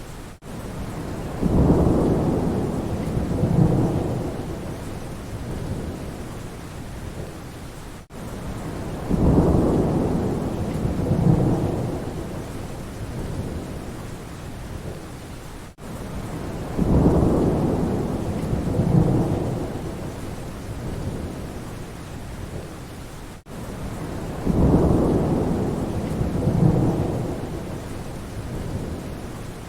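Steady rain with rolling thunder: a low rumble swells up twice and fades, four times about eight seconds apart, each one the same. It is a short rain-and-thunder recording looped, with a brief dropout at each seam.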